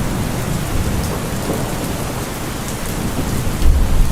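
Steady rain hiss from an added rain-ambience track, with a deeper low rumble swelling in near the end.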